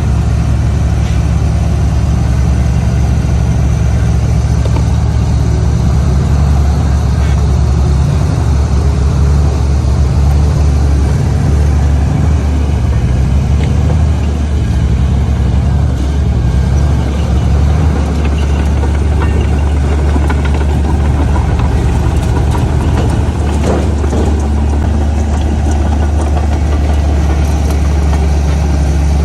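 Heavy diesel engine of earthmoving machinery running steadily, its low note shifting slightly in pitch about halfway through as the load changes.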